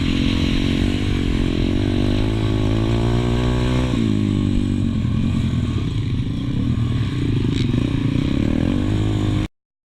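Pit bike engine heard on board, its revs rising to a peak about four seconds in and then dropping to lower, uneven revs. The sound cuts off suddenly near the end.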